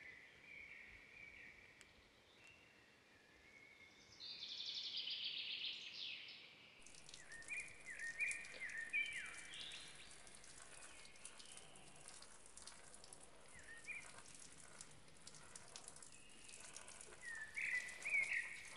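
Small songbirds calling, with repeated short chirps and one buzzy trill about four seconds in. From about seven seconds in, a faint crackling hiss runs under the calls.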